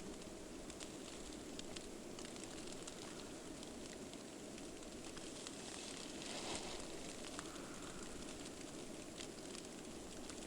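Quiet, steady outdoor hiss with many fine scattered ticks, snow pattering down in a blizzard, with a brief swell about six and a half seconds in.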